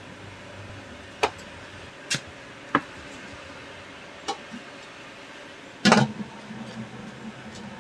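A handful of sharp clicks at irregular intervals, the loudest a quick cluster of them about six seconds in, over a faint steady background.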